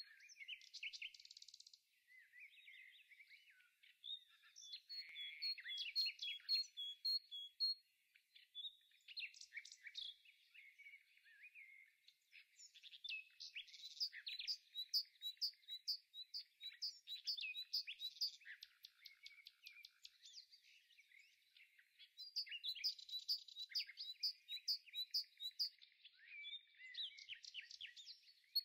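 Small birds chirping and singing: rapid high chirps and trills that run on with a few short lulls.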